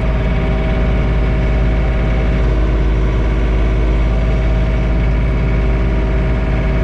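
John Deere 3046R compact tractor's three-cylinder diesel engine running steadily, with the PTO-driven snowblower turning, heard from inside the closed cab.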